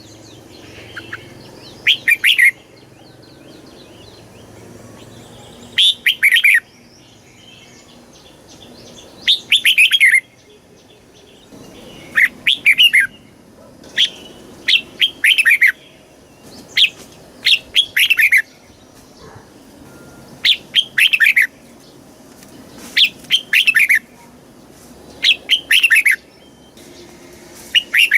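Red-whiskered bulbul singing short, bright, warbled phrases, each about half a second long, repeated every one to three seconds.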